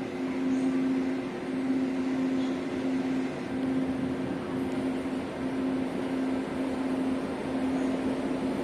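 Diesel locomotive engine running with a steady low hum that pulses slightly about once a second, under a noisy rumble.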